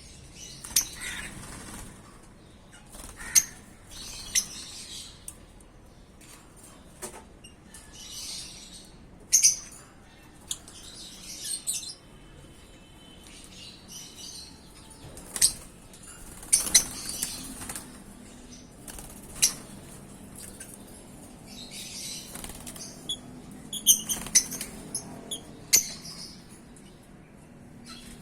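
Pet lovebirds giving short, sharp high chirps and squeaks at irregular intervals, mixed with bursts of wing flapping and rustling.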